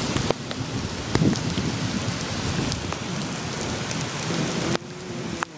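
Rain falling steadily, with scattered drops tapping on the camera as small clicks and a low rumble underneath. The sound drops off suddenly near the end.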